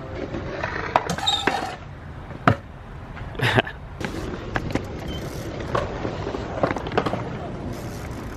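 Stunt scooter wheels rolling on concrete, with several sharp clacks and knocks from landings and impacts.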